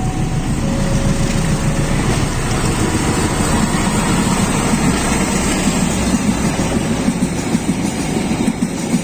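Train running past on the rails: a steady heavy rumble with rattling from the wheels and carriages, growing a little louder and more clattery near the end.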